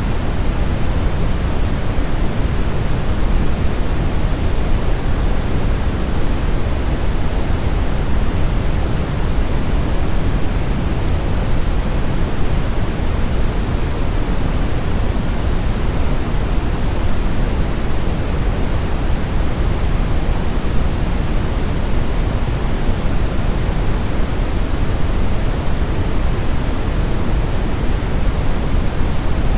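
Steady brown noise: an even, deep rushing hiss with most of its energy low down, unchanging throughout.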